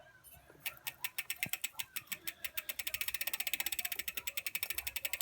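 BMX bike's rear hub ratchet clicking rapidly as the wheel and drivetrain spin, about a dozen evenly spaced clicks a second, starting about a second in.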